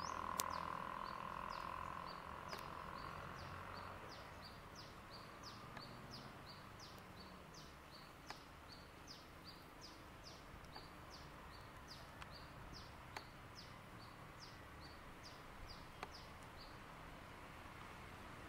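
A bird calling over and over in short, high, falling chirps, about two a second, over faint outdoor background noise.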